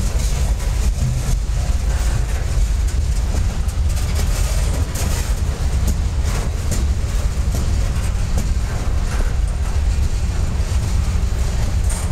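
Freight train boxcars and tank cars rolling past, a steady low rumble of steel wheels on the rails with a few faint clacks.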